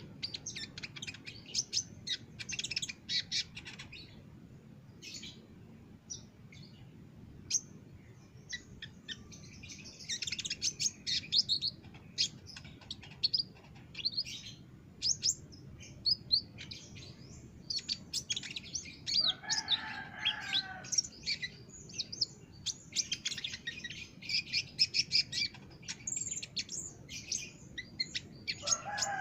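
Olive-backed sunbird (kolibri ninja) singing hard, in fast runs of high, sharp chirps and trills that break off and start again. A lower, fuller call comes about twenty seconds in.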